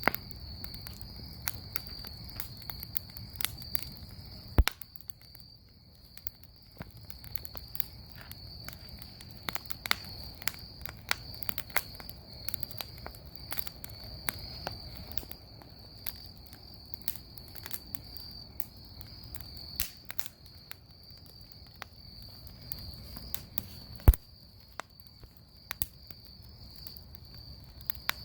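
Wood bonfire crackling with scattered pops, two of them sharp and loud, one about five seconds in and one about four seconds before the end, over a steady high-pitched trill of crickets.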